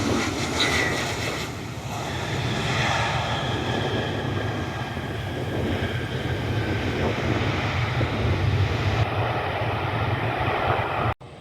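Jet airliner engines, a steady rushing roar with a faint high whine in the first few seconds, as the inbound airliner passes on approach. It cuts off suddenly near the end.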